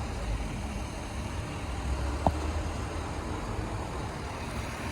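Steady low rumble of motor vehicles, with one short sharp click about two seconds in.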